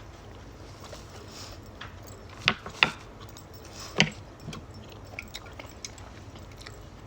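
A person chewing food, with small wet mouth noises and three sharp clicks or smacks in the middle.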